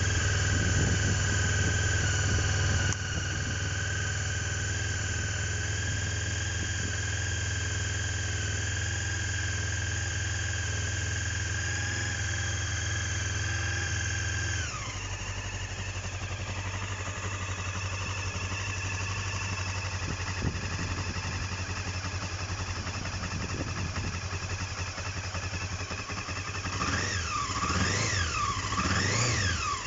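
1999 Honda CB500's parallel-twin engine idling with a steady high whine over it. The idle drops about halfway through, and near the end it is revved up and down a few times.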